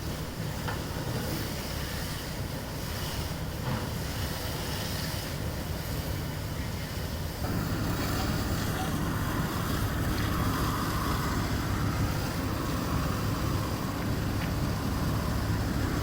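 A large vehicle's engine running steadily, a low drone under wind noise on the microphone, getting louder about halfway through.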